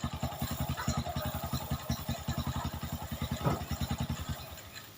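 A small engine running with a steady low putter, about eleven beats a second, fading out in the last half-second.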